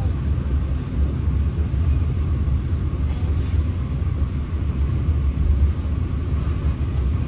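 Express Rakyat passenger train running, a steady low rumble.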